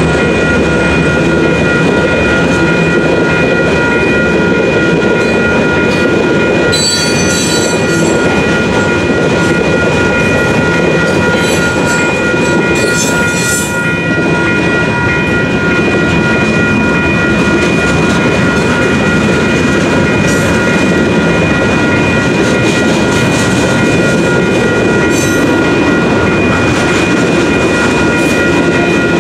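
Freight train cars rolling past a railroad grade crossing with a steady rumble and clickety-clack of wheels over the rails, while the crossing's WCH Type 2 electronic bells ring steadily. Brief high-pitched wheel squeals come about seven and thirteen seconds in.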